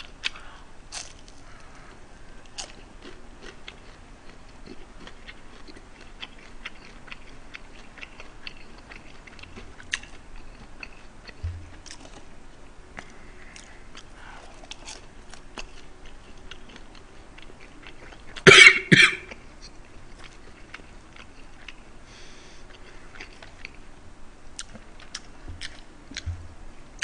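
Close-miked chewing and biting of fried food, with crunching and many small clicks. About two-thirds of the way through, two quick coughs, the loudest sound.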